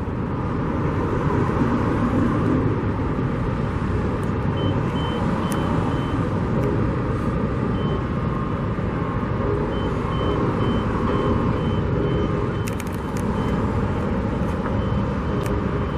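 Steady rumble of road traffic and construction machinery, with a high-pitched reversing alarm beeping a couple of times a second in runs, starting about four seconds in. A few short clicks come about three-quarters of the way through.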